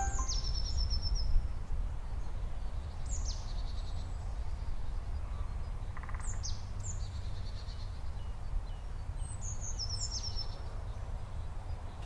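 High-pitched bird calls, each a quick downward sweep followed by a short run of rapid notes, repeated several times over a steady low background rumble.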